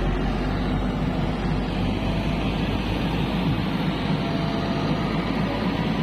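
Heavy diesel engine running steadily and loudly, with a deep low hum.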